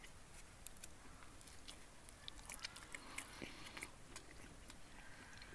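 Faint chewing of a young child eating, with scattered small soft clicks over otherwise quiet room tone.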